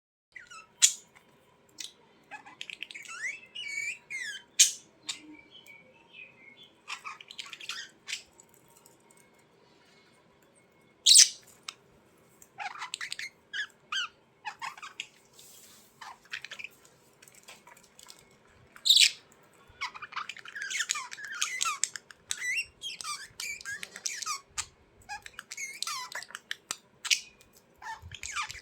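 Birds chirping and squawking in short gliding calls, with a few sharp, loud calls scattered through and a dense stretch of twittering in the last third.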